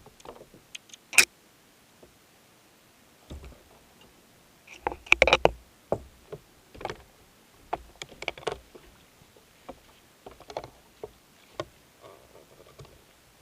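Irregular knocks and clatter of gear being handled aboard a Hobie kayak. There is a sharp loud knock about a second in and a quick run of knocks around five seconds in.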